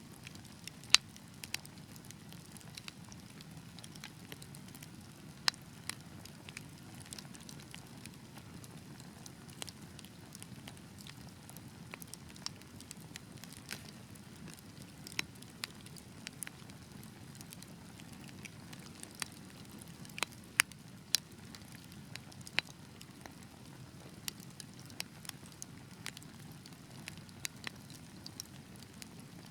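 Wood fire burning with a steady low rumble, crackling with sharp pops at irregular intervals.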